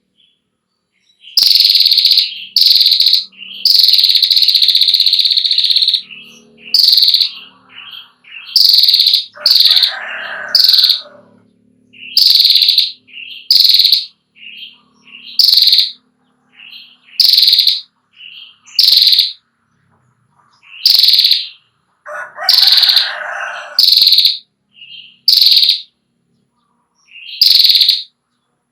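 Female prinia calling in a 'ngetir' series: short, sharp, high notes about once a second, with one longer drawn-out note about four seconds in. A lower, rougher call comes in twice, near ten seconds and again past twenty.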